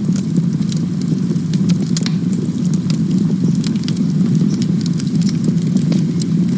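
Campfire burning: wood crackling with frequent irregular sharp pops over a steady low rumble.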